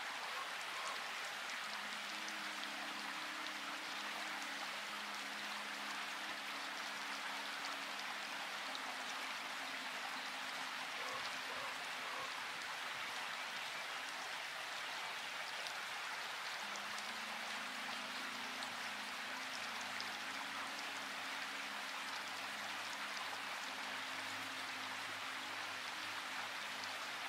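Steady rain falling, an even hiss of many drops, with a faint low hum that comes and goes beneath it.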